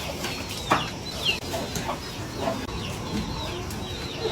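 Chickens clucking, a series of short separate calls.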